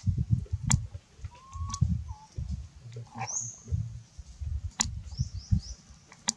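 Birds chirping in the background: a few short, high chirps, one rising about three seconds in and three quick falling ones near the end, over an uneven low rumble, with several sharp clicks.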